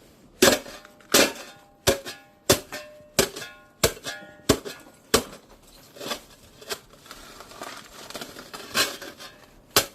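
A metal shovel striking and chipping at solid ice, in repeated sharp blows with a short metallic ring, about one and a half a second. The blows get weaker and more spread out in the second half.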